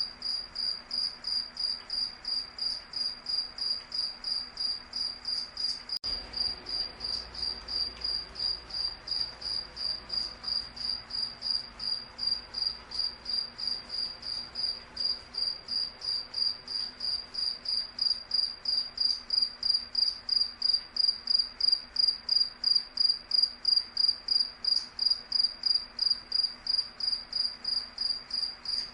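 Cricket chirping steadily in a high, even pulse, about three chirps a second, growing a little louder in the second half.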